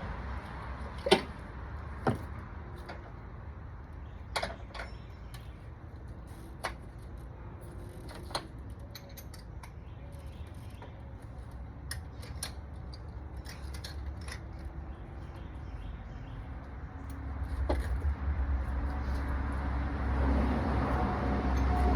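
Scattered light clicks and knocks of hands and tools working on the engine while the ignition coil packs are pulled. A low rumble builds over the last few seconds.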